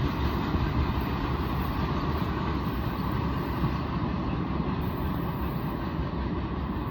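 Freight train rolling past with a steady rumble of wheels on rails.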